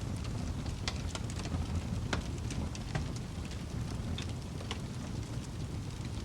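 Wood fire burning in a fireplace: a steady low rumble and hiss of flames with scattered sharp crackles and pops from the burning logs.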